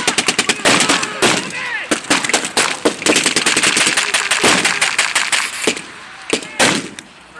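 Battle-reenactment gunfire firing blanks: rapid machine-gun bursts and scattered single rifle shots, densest at the start and again from about three seconds in.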